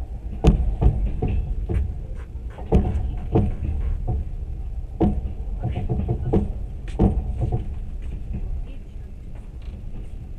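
Moving train heard from on board: a steady low rumble with sharp, irregular knocks and clatter from the running gear, thinning out near the end.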